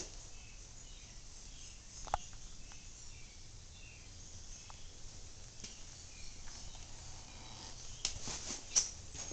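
Quiet outdoor background with faint, short, high chirps scattered throughout, broken by a few sharp clicks: one about two seconds in and a quick run of taps near the end.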